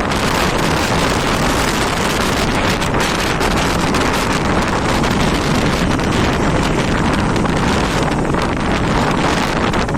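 Strong storm wind blasting across the microphone: a loud, steady rush of noise with small irregular gusts.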